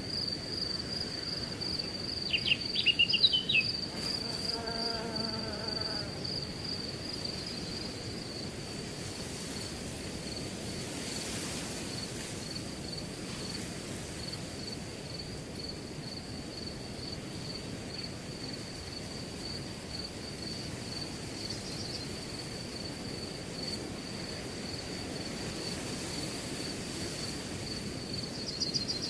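Crickets chirping steadily in rapid, even pulses over a low hiss of wind in grass. About two seconds in, a bird gives a quick burst of high chirps, the loudest sound, followed by a short, lower call.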